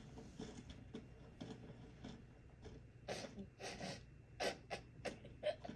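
Faint, irregular short clicks and taps over a steady low hum, a few of them louder between about three and five and a half seconds in.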